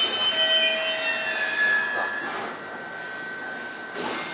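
Aichi Loop Railway electric train coming to a stop at the platform. Several high, steady squealing tones fade as it halts, about two and a half seconds in.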